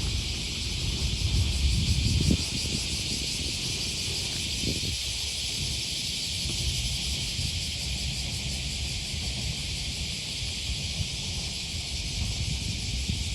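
Cicadas buzzing in a steady, dense chorus, with a low rumble underneath that is loudest in the first couple of seconds.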